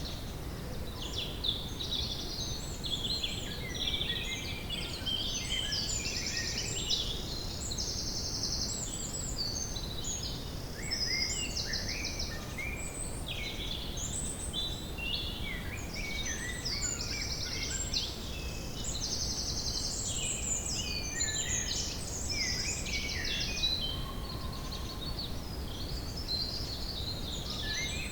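Woodland birdsong chorus: several birds singing at once, with overlapping chirps, whistles and rapid trills, over a steady low background noise.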